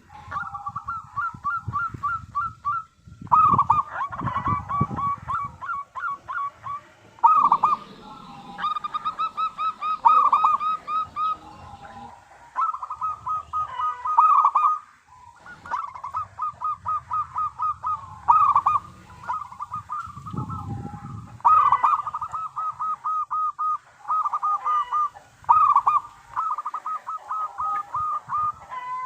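Zebra dove (perkutut) cooing in phrases of rapid, repeated notes, one phrase after another with short gaps between. A low rumble sits under some phrases.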